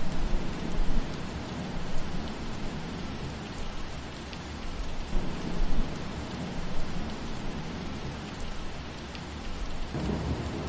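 Steady rain falling through trees, with faint scattered drip ticks and a deep low rumble that swells a few times.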